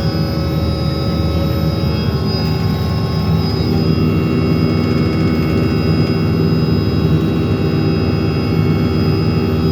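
Helicopter in flight: a loud, steady drone of engine and rotor, with a constant high whine above it.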